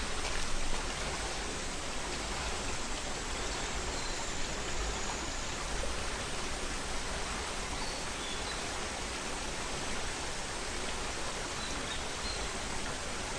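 Headwater mountain stream flowing over rocks: a steady, even rush of water.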